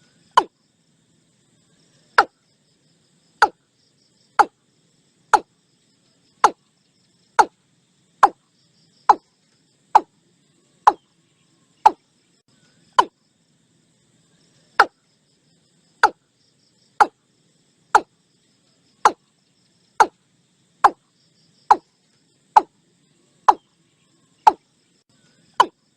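Watercock calling: a series of short, hollow single notes, about one a second, with one longer pause about halfway through.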